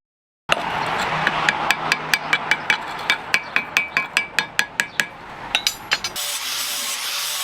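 A hammer striking steel on an anvil in a quick, even rhythm of about five blows a second, each blow ringing. About six seconds in, this gives way to a steady scraping of sawing or filing.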